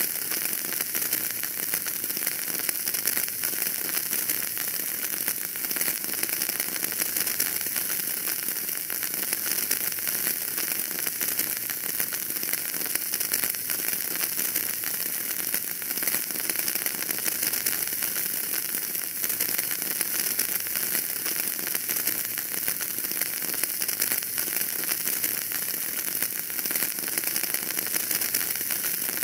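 Wood fire burning in a fireplace, crackling steadily: many small pops over an even hiss.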